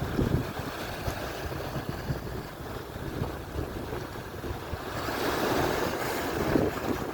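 Atlantic surf breaking and washing on the shore, with wind rumbling on the microphone. A wave swells up louder and hissier about five seconds in, then eases.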